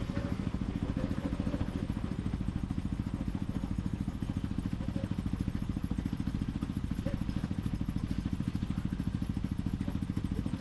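Motorcycle engine running steadily under way, a fast, even low throb of firing pulses that holds without revving up or down.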